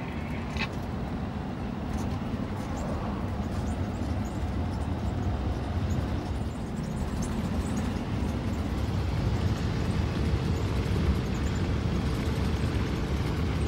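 Steady low rumble of a vehicle driving, engine and road noise together, growing slightly louder near the end.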